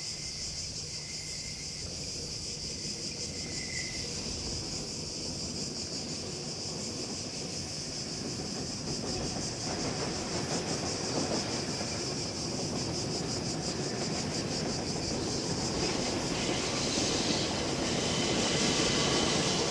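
Diesel-hauled freight train approaching along the line, its engine and wheel rumble growing steadily louder, over a constant high buzz of insects.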